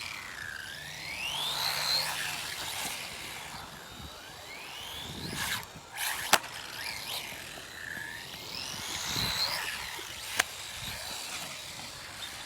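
Electric RC vehicle's motor whining, rising in pitch as it speeds up, three times. Two sharp knocks, about six and ten seconds in.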